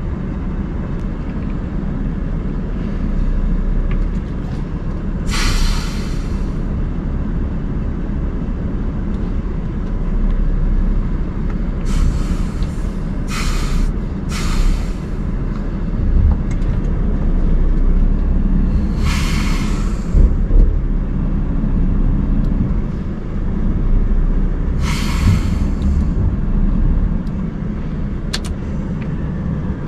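Scania R580 truck's V8 diesel running steadily at low revs, with about six short hisses of compressed air spread through it.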